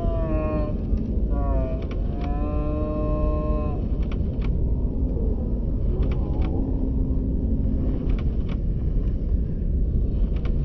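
A steady low rumble throughout, with a high voice calling out in drawn-out, gliding tones during the first four seconds.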